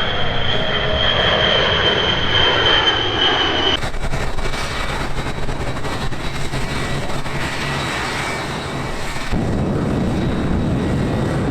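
Aircraft engines running loud and steady, with the sound changing abruptly twice. The first part carries a high whine that drifts slightly down in pitch.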